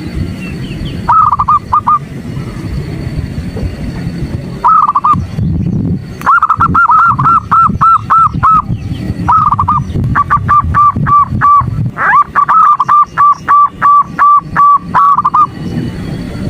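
Female zebra dove (perkutut) calling: short groups of three or four cooing notes, then long runs of repeated notes at about three to four a second, over a low background rumble.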